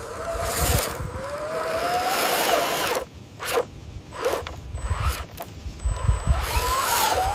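Small electric motor and gears of a radio-controlled model truck whining, the pitch wavering and rising over the first three seconds, then short stop-start bursts of whirring and scraping.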